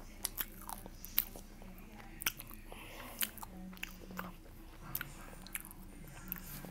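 Close-up chewing and biting of crunchy food, with irregular sharp crunches every second or so.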